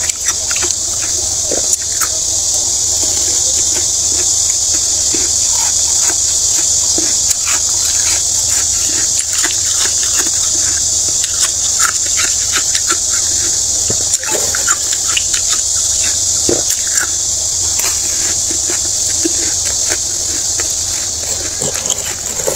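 Close-miked crunching and chewing of mouthfuls of soft freezer frost: many quick, crisp crackles over a steady high hiss.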